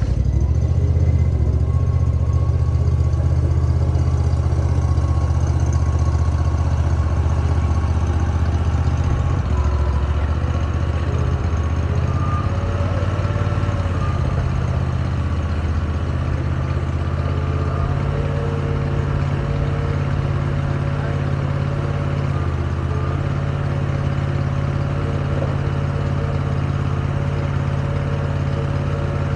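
Large diesel engine idling steadily just after being started, a deep even rumble that eases slightly in level over the first fifteen seconds or so.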